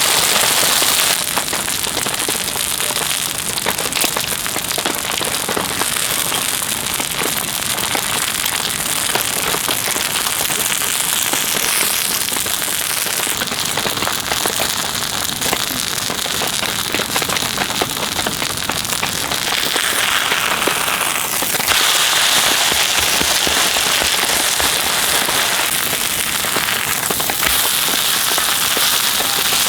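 Steady heavy rain falling, with a dense crackle of many drops striking a surface.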